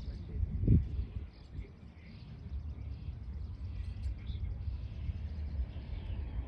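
Birds chirping faintly over a steady low rumble, with one dull thump a little under a second in.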